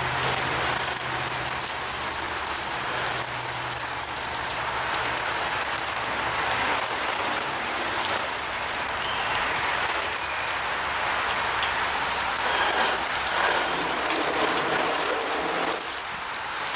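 Hose water spraying and spattering steadily onto a truck's body, rinsing off dust.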